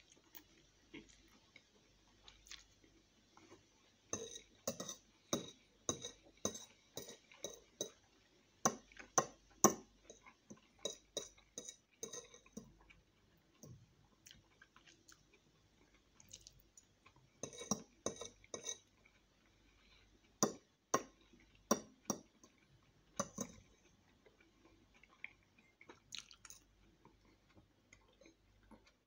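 Close-up chewing and slurping of spaghetti: short wet mouth sounds in runs of about two a second. A metal fork clinks and scrapes on a ceramic plate now and then.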